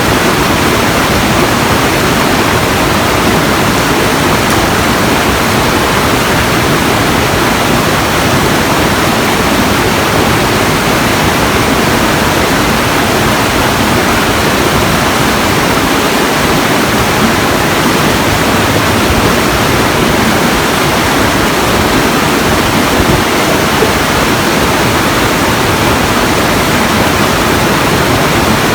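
Steady, loud rushing of falling water, an even roar with no breaks or changes.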